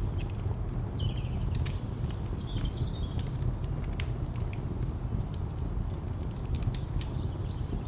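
Wood fire crackling with irregular sharp pops over a steady low rumble of distant traffic. A few short bird chirps come in about half a second to a second in and again around two and a half seconds.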